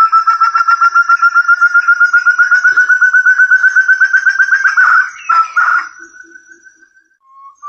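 Forest partridge (puyuh hutan, 'burung terung') calling: a fast run of clear whistled notes, about ten a second, slowly rising in pitch. It breaks into a few rougher notes about five seconds in and trails off. After a short pause a new series starts near the end.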